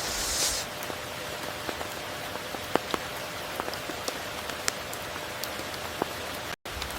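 Steady rain falling, an even hiss with scattered close drops ticking sharply. A brief swell of hiss comes in the first half-second, and the sound cuts out for an instant near the end.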